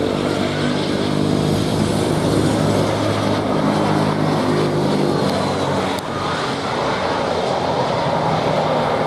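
Jet airliner engines running loudly and steadily, a low engine hum under a broad rush of noise, with a faint high whine that falls in pitch about two seconds in.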